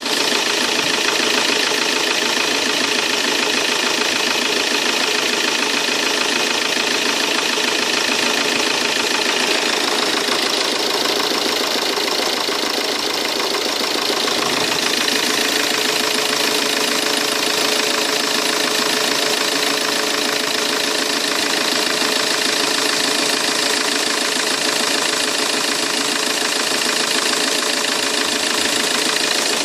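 Citroën C8's 2.0 HDi 110 four-cylinder turbodiesel idling steadily with its diesel clatter, just after all four injector seals were replaced; the owner is unsure whether it is running correctly.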